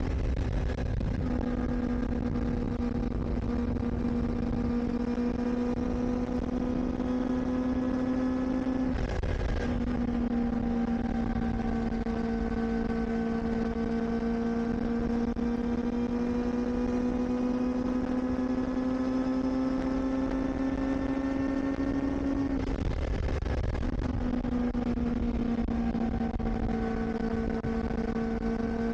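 Kawasaki Ninja ZX-4RR's 399 cc inline-four engine running at steady, fairly high revs while riding. Its note drifts slowly up and down and drops out briefly three times: about a second in, about nine seconds in, and about twenty-three seconds in. A low rush of wind and road noise runs underneath.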